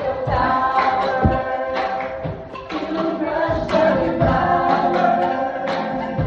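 A choir singing, several voices holding and moving between sustained notes, over low beats about every second and a half.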